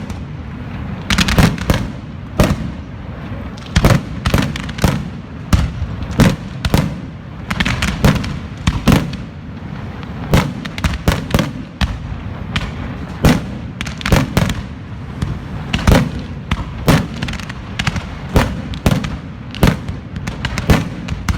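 Fireworks display going off continuously: a rapid, irregular barrage of sharp bangs and crackles, several a second, over a steady low rumble of echoing detonations.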